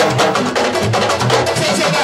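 Fast sabar drumming for dance: a dense rhythm of sharp, cracking drum strokes over deeper thuds, loud and unbroken.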